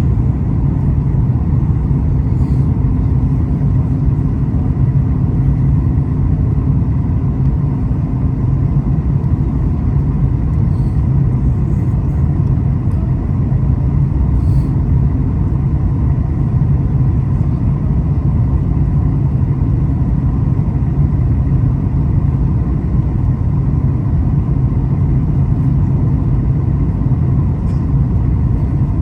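Steady low rumble of a Boeing 737 airliner's engines and airflow heard from inside the cabin during the landing approach, with a faint steady hum over it that fades out about nine seconds in.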